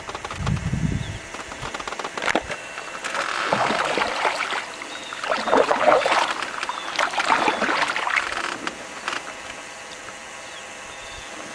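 Canoe paddles dipping and splashing in water in irregular strokes, settling into a steadier, quieter water hiss near the end.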